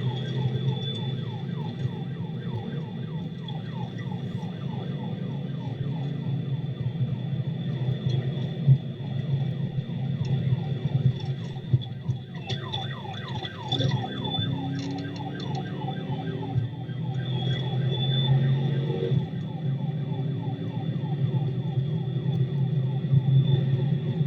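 Police sirens sounding during a vehicle chase: a rapid yelp of quick falling sweeps, several a second, over a steady low hum.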